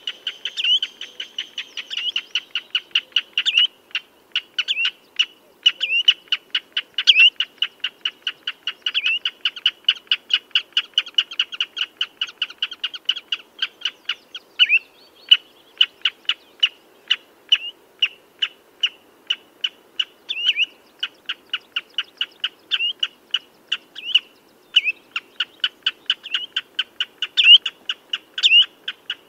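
Common redshank calling: a long, rapid series of short, sharp piping notes, several a second, with louder slurred notes scattered among them.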